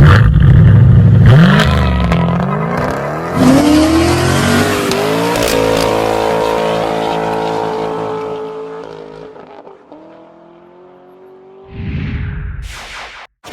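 Car engine revving hard twice, then a long note that slowly falls in pitch and fades as the car pulls away. A short whoosh comes near the end.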